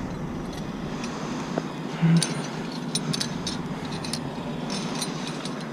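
Light metallic clinking and jangling, like climbing hardware such as carabiners and rigging gear knocking together, in two spells of a second or so each. There is one short, louder low thump about two seconds in.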